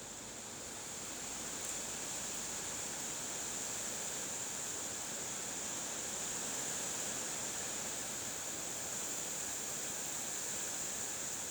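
Wind blowing steadily, heard as an even high hiss without low rumble or gusts, growing a little louder about a second in.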